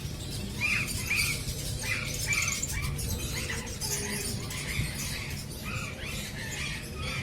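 Caged aviary birds chattering and chirping: many short calls repeating every half second or so, with higher twittering above them, over a low steady rumble.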